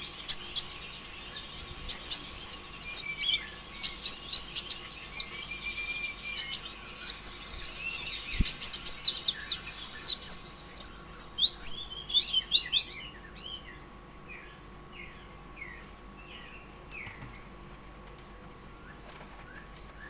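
Konin (kolibri ninja) sunbird singing a rapid run of high, sharp chirps and trills, dense and loud for about the first two-thirds, then thinning to scattered fainter down-slurred notes. A faint steady hum sits underneath, with one low thump about eight seconds in.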